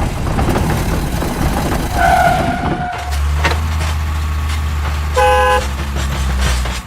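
Heavy construction vehicle engine running with a steady low hum, and a vehicle horn tooting briefly, once about two seconds in and once about five seconds in.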